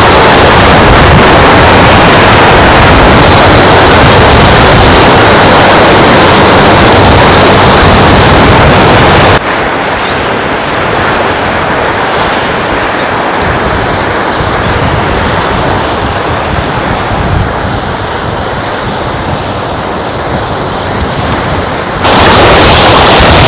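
Beach surf and strong wind on the microphone, a loud steady rush of noise. It drops sharply to a softer, duller wash about nine seconds in, then jumps back to full loudness near the end.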